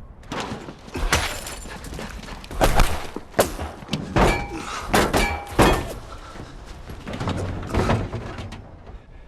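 A run of about ten irregular heavy thuds and clanks, a couple of them ringing briefly afterwards like struck metal, easing off near the end.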